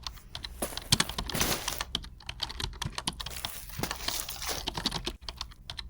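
A close, irregular run of light clicks and taps, with two stretches of rustling about a second and four seconds in.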